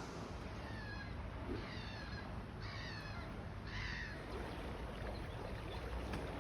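A bird calling four times, about a second apart, with short harsh calls, over a faint steady low hum.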